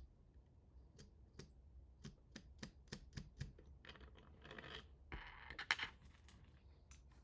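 Small hard parts being handled during assembly: a run of light clicks and taps, with two brief scraping rustles around the middle, the second the loudest.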